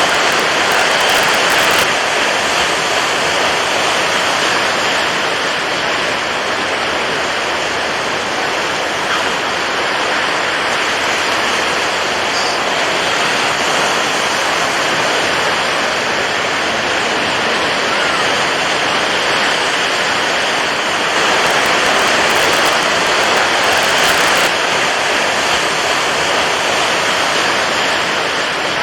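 Water waves washing in a steady, continuous rush, swelling slightly louder for a few seconds past the middle.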